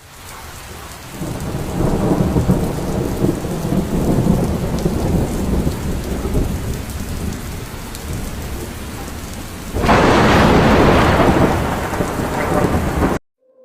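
Steady rain with rolling thunder rumbling beneath it. A louder thunderclap breaks in suddenly about ten seconds in, and the sound cuts off abruptly near the end.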